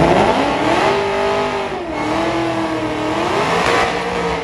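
Cadillac CTS-V's V8 engine revving through a burnout, the rear tyre spinning. The revs climb, dip about two seconds in, then climb again.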